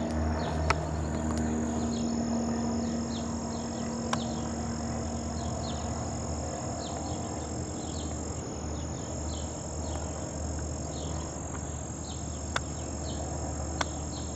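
A bird chirping over and over, about two short falling chirps a second, over a steady low rumble and a faint steady high-pitched tone. A few sharp clicks stand out.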